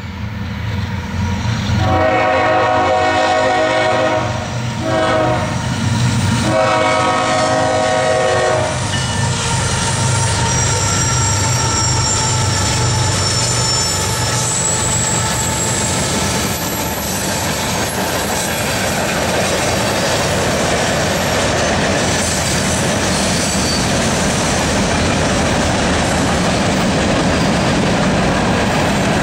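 A CSX freight train's locomotive horn blows a long blast, a short one and a long one. The diesel locomotives then pass with a thin high squeal from the wheels, followed by the steady rumble and clatter of freight cars rolling by.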